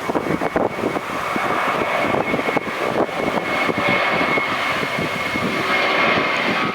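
Airliner engines passing, a rushing roar with a steady high whine that grows louder over several seconds, with wind buffeting the microphone.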